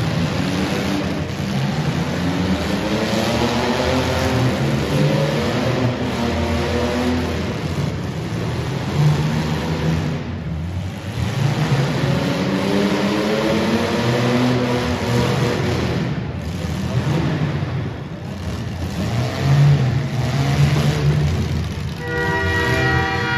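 Demolition derby compact cars' engines revving hard over a steady din of running engines, the pitch climbing and falling in long sweeps several times. About a second before the end, a loud, steady air horn starts blowing.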